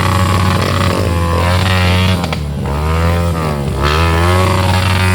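Off-road dirt bike engines revving, the pitch repeatedly dropping and climbing again as the throttle is worked, typical of riding through mud.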